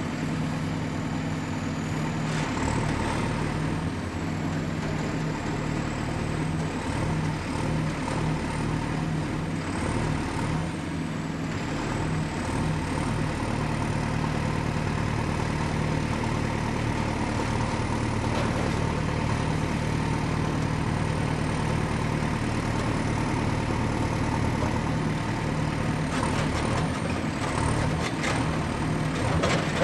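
Excavator's diesel engine running steadily, with a thin high whine that wavers slightly in pitch throughout and a few short clicks near the end.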